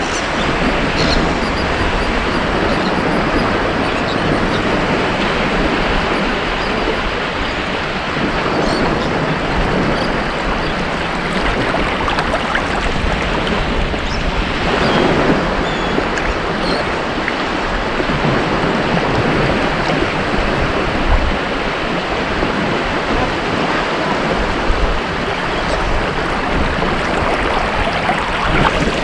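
Ocean surf on a beach: a continuous wash of breaking waves, with one wave breaking a little louder about halfway through.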